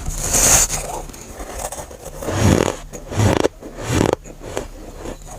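Dry, powdery freezer frost being bitten and crunched close to the microphone: one long crunch at the start, then three shorter ones.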